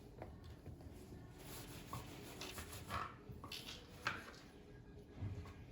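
Light handling sounds in a quiet room: soft rustling with a few short clicks and knocks, the sharpest about three and four seconds in.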